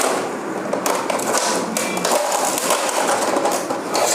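Plastic housing of a printer's scanner unit being forced open: a run of irregular knocks, clatter and cracking plastic.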